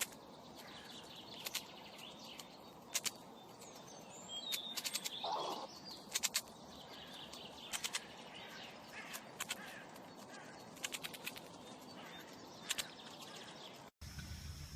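Faint outdoor ambience with birds chirping, broken by many scattered sharp clicks.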